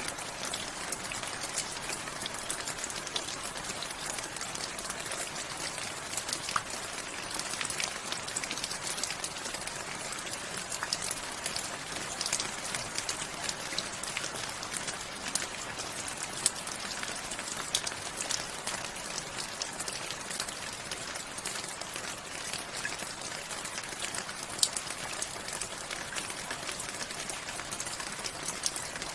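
Steady rain falling, with many close individual drops pattering on a surface.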